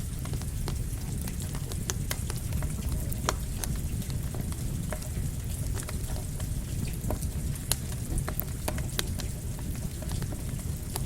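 Campfire crackling, with irregular sharp pops, over a steady rush of rain.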